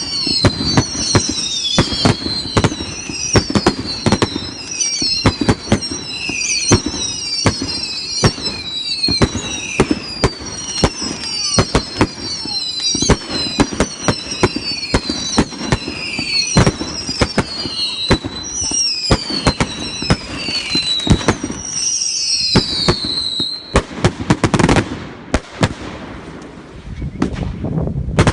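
Consumer firework barrage firing in rapid succession: many short screaming whistles, each falling in pitch, overlap with sharp bangs and crackle. The whistles stop about three-quarters of the way through, leaving scattered bangs.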